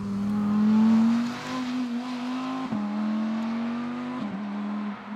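Audi R8 GT's 5.2-litre V10 accelerating away, its note rising in pitch and dropping sharply at two upshifts about a second and a half apart.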